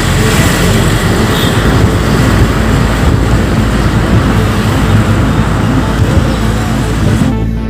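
Steady road and traffic noise from a moving car, a loud even rush of tyres and engine. Near the end it gives way to music.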